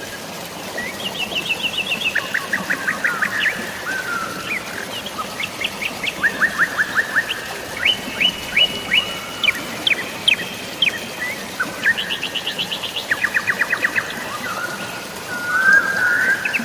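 Songbirds singing: rapid trills, each a quick run of short chirps lasting about a second, repeated one after another. Under them runs a steady hiss of rain and flowing water.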